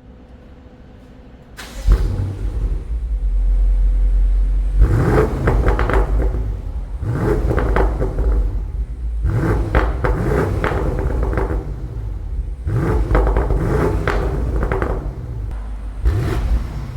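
BMW M550i's twin-turbo V8 through a Brillante valved aftermarket exhaust: it starts with a sudden flare about two seconds in, then idles and is revved up and let fall again several times.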